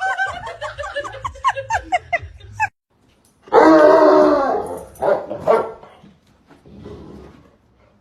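Dog barking and yipping: a fast run of short, high yips, a brief break, then a few louder, longer barks.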